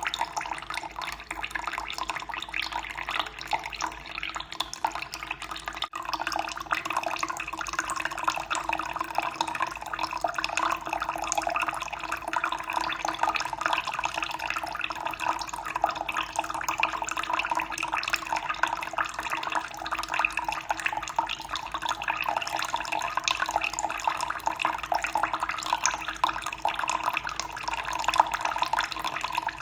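Running water, a steady dense trickling and splashing with no let-up.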